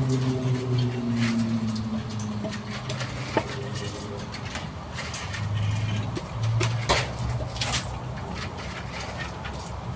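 A motor vehicle's engine falls in pitch over the first couple of seconds, as when it slows or passes by. A low engine hum and scattered sharp clicks follow.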